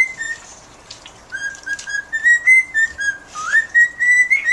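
A bird whistling a string of short notes that step up and down in pitch, with one rising slide about three and a half seconds in.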